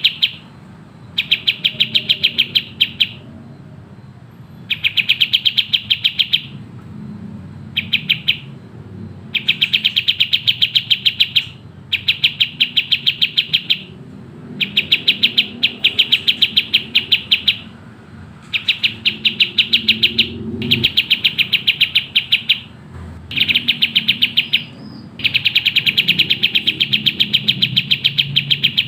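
Kapas tembak (a triller) singing in fast, tightly packed trills: bursts of rapidly repeated high notes, each a second or two long, separated by short pauses, over a faint low hum.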